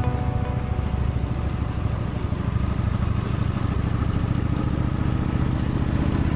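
Honda Shadow VT1100 Aero's V-twin engine running steadily with a fast, even low pulse.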